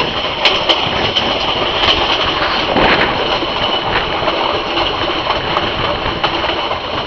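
Metre-gauge passenger train running along the track, heard from an open carriage window: a steady rumble and rattle of the wheels and carriages, with a few sharp clicks.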